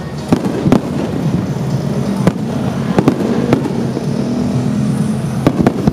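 Aerial firework shells bursting in a display: about seven sharp bangs at irregular intervals, over a steady low hum.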